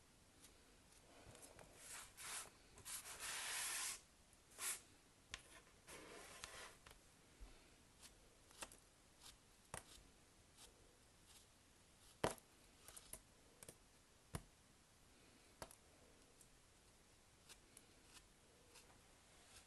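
Soap packaging being handled and opened: soft rustling of wrapping for about three seconds starting a second in, then scattered light taps and clicks.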